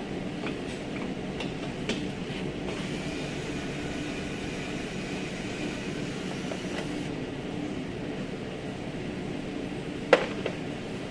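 Steady machine hum in a repair workshop, with a few light clicks of work on the car's body parts. About ten seconds in comes one sharp metallic clink that rings briefly, like a metal tool or part set down.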